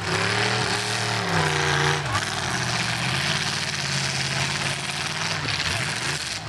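Demolition derby car engines revving under load as two cars push against each other, the pitch rising and falling several times, with a steady hiss behind.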